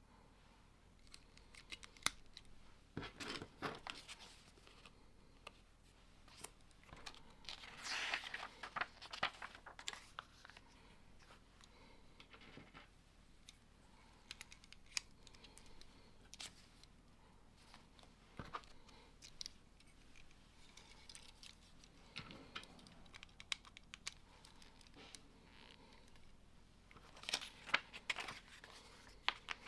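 Plastic Lego bricks clicking and clattering as they are handled and pressed together. There are bursts of rustling about three seconds in, around eight seconds and near the end.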